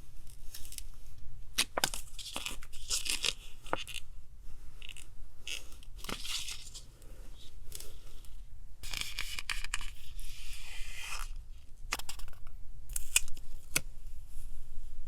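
Paper being torn by hand in several rasping strokes, the longest about two seconds near the middle, with sharp taps and rustles of paper handling between them.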